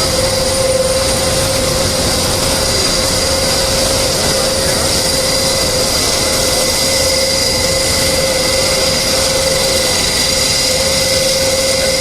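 An aircraft turbine running steadily: a loud, even rush with a constant high whine.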